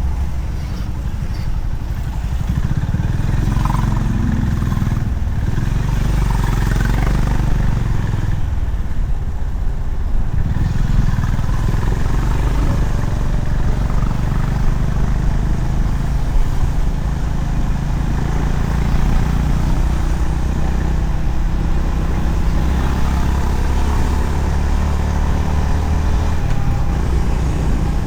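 Honda CB350RS's air-cooled single-cylinder engine running steadily while the motorcycle is ridden on the road, its pitch drifting slightly up and down with the throttle.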